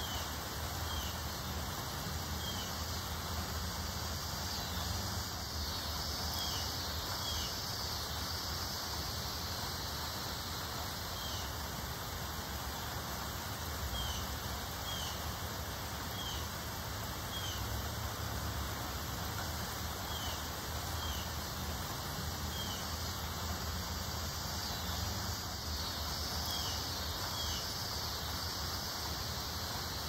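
A small bird giving short, high chirps every second or two, over a steady hiss and low rumble of outdoor air.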